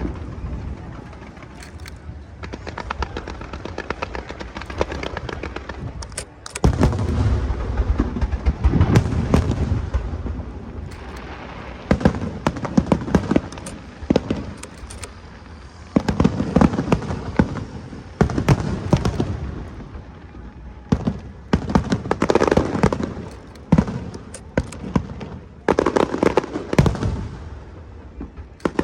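Aerial fireworks display: a rapid string of shells bursting with deep booms and sharp cracks, coming in clusters with crackling and hissing between them and short lulls.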